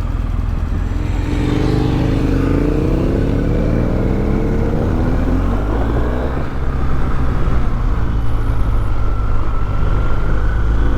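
BMW R 1250 GS boxer-twin engine pulling away and accelerating, its pitch rising over the first few seconds. From about six seconds in, wind and road noise grow louder as the bike gets up to speed.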